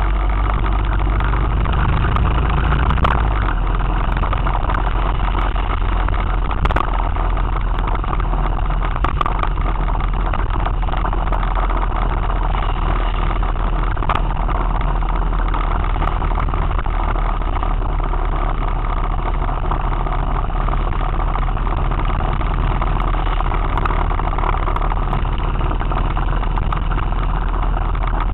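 Motorcycle riding along a road: steady engine drone mixed with wind and road noise on the microphone.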